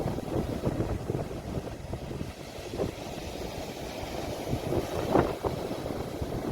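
Sea waves washing on the shore, heard as a low, churning rumble with wind buffeting the phone's microphone; a couple of louder surges come about five seconds in.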